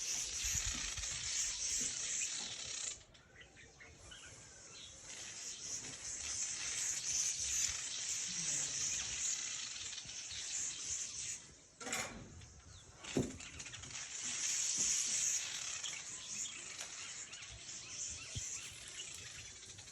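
Birds chirping in a steady high-pitched chorus, which drops away briefly about three seconds in and again near the middle. A couple of sharp clicks come just after the middle.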